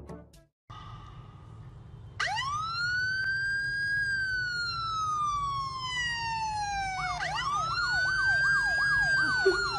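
Electronic siren: a wail that rises and then slowly falls, followed by a second wail with a fast yelping warble over it, about three sweeps a second.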